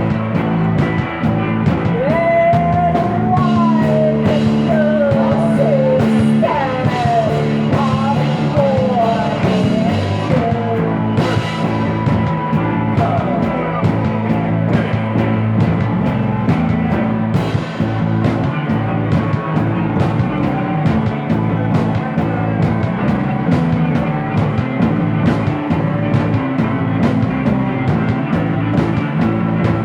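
Rock band music with a steady beat, bass and guitars, and a wavering, bending lead line over roughly the first ten seconds.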